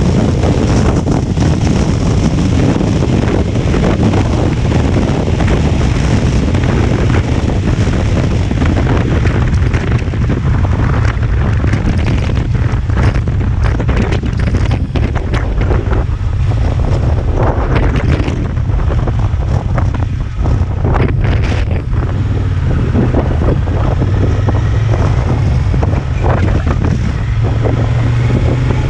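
Strong wind buffeting the microphone over the steady drone of a Honda Transalp 750's parallel-twin engine at cruising speed.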